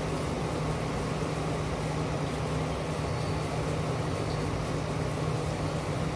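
Steady city rain, an even hiss with no breaks, over a constant low hum. No thunder in this stretch.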